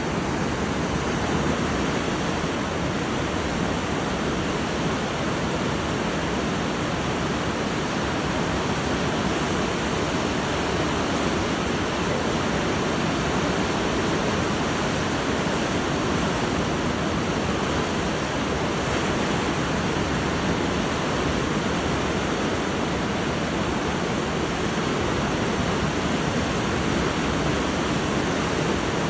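Whitewater of a large mountain river rushing through rapids, a steady unbroken rush of water.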